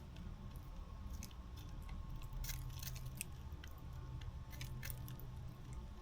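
Birds pecking and cracking seed at a feeder: irregular sharp clicks and crunches, thickest about two and a half to three and a half seconds in, over a low steady hum.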